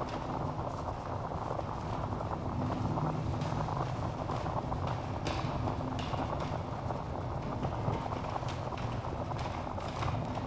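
Wood fire burning in a fireplace: a steady low rush of flames with scattered crackles and pops from the logs, a few sharper pops standing out around the middle.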